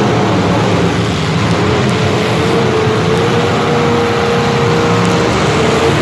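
An engine running steadily and loudly at a nearly constant speed, its pitch holding level with only slight wavering.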